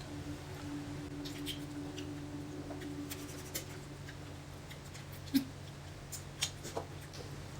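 Quiet eating at a table: scattered small clicks and ticks of utensils and food, a few sharper ones in the second half, over a steady low hum.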